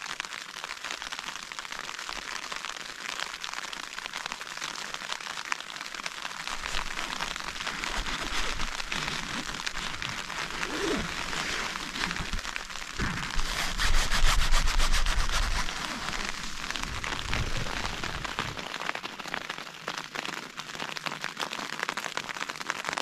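Steady rain falling on a cheap nylon tent, a dense hiss of drops. A deeper rumble swells in through the middle and eases off again.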